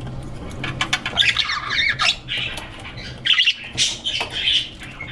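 A colony of budgerigars chattering and squawking together, many birds calling over one another in quick, warbling chirps, with a steady low hum underneath.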